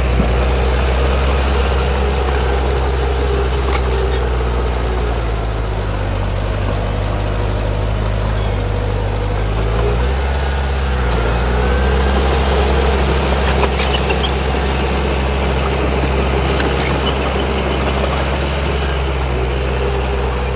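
Heavy diesel earthmoving engine running steadily under load. Its pitch sags a little about a quarter of the way in and picks back up around halfway.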